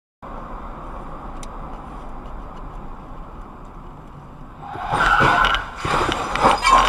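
Dashcam car's steady road and engine noise, then, from about five seconds in, the loud sudden noise of a road traffic collision in front of it, with a high steady tone sounding through the crash noise near the end.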